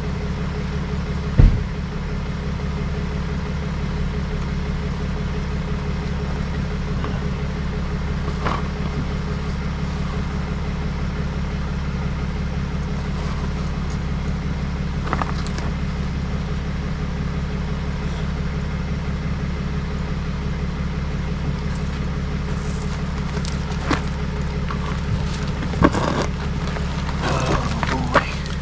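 Steady low drone of a running vehicle, with a few short knocks and clicks, one early and several near the end.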